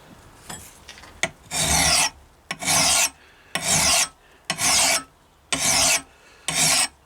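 Fine metal file drawn across a steel hatchet head in even push strokes, about one a second, starting about a second and a half in: finishing the edge after shaping and smoothing out the marks left by coarser filing.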